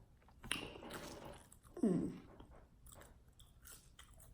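A person chewing and biting fast food close to the microphone, with soft wet mouth noises and light crunches. A short voice-like sound, falling in pitch, about two seconds in.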